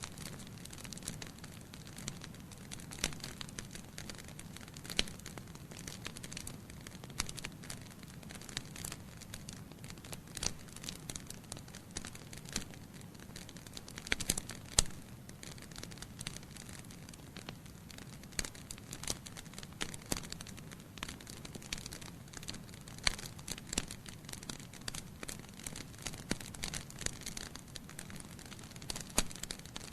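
Wood fire burning in a fireplace: a steady low hiss and rumble of flames with frequent irregular crackles and pops from the burning logs, a few sharper, louder pops scattered through.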